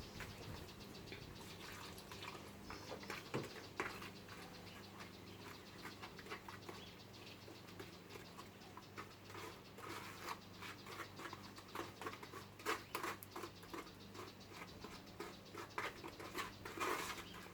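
Sand-and-cement mortar being mixed by hand with a latex gauging liquid: irregular gritty scraping and light clicks, busier in the second half.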